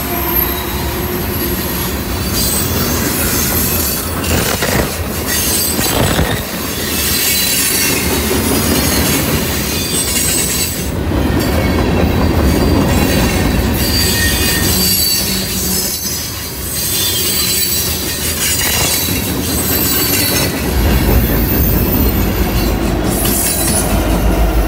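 A BNSF freight train rolls past close by, its steel wheels squealing on the rail and its car wheels clacking over the joints. Near the end a deeper diesel rumble builds as a rear locomotive comes past.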